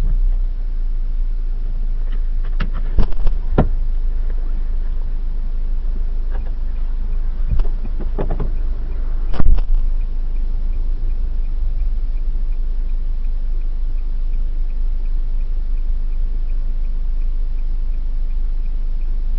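A steady low rumble with a scatter of sharp knocks and thumps between about three and ten seconds in, the loudest near the middle; after that the rumble carries on with a faint, regular ticking.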